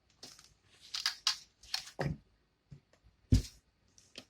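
Close-miked eating of chicken: a string of separate short crackles and clicks of tearing and chewing, with a heavier thump about three and a half seconds in.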